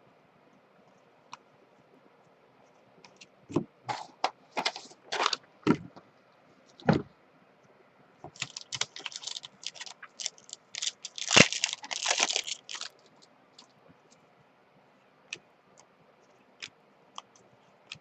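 Packs of trading cards being opened and handled: scattered sharp clicks and crinkles, then several seconds of dense crinkling and rustling of pack wrappers in the middle, then a few faint clicks.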